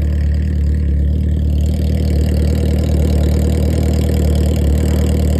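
Inline-four sport-bike engine of a drag motorcycle idling steadily, with a deep, even low-pitched note.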